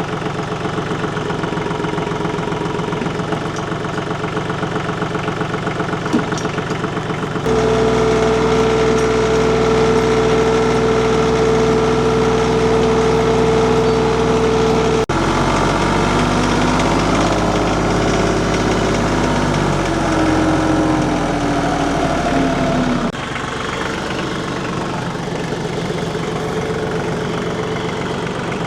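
Compact tractor engine running: idling at first, then throttled up to a steady higher speed about seven seconds in. Around the middle the sound changes and the pitch slides down, and a little past twenty seconds it settles back to idle.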